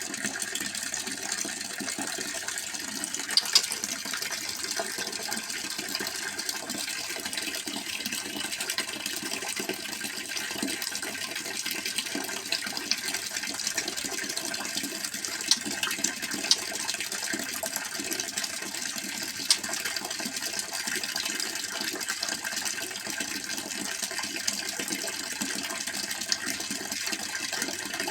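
Steady rush of running water, with a few sharp clicks scattered through it.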